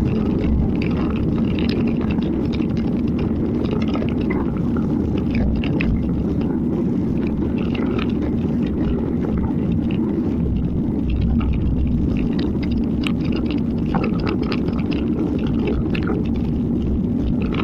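Steady rumble of wind and wet-road noise on the microphone of a camera riding a bicycle downhill in the rain, with scattered small ticks and clicks throughout.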